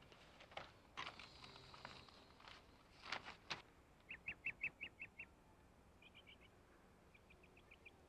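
Faint bird chirps in short quick runs of about six a second, starting about halfway through, over near-quiet background. A few soft clicks and rustles come before them.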